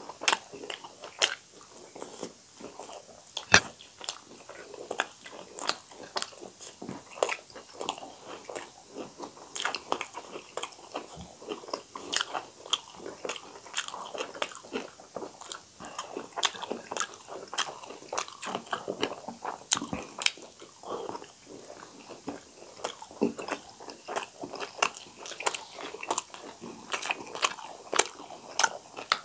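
Close-miked chewing of steamed vegetable momos by two people eating, with many sharp wet mouth clicks and smacks, several a second.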